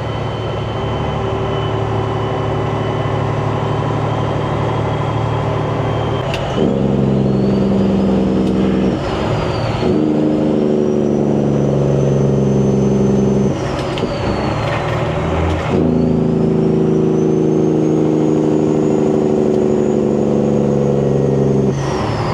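Semi truck's diesel engine pulling hard through a run of upshifts, with a turbo whistle that climbs in each gear and drops at each shift. Shifts come about six seconds in, at about ten seconds, around fourteen to sixteen seconds, and near the end.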